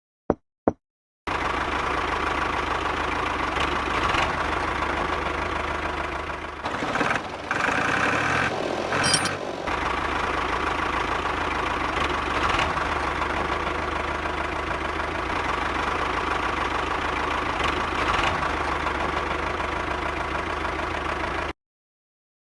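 Engine running steadily at idle, starting abruptly after two short clicks. It turns rough and uneven for a few seconds in the middle, then cuts off suddenly near the end.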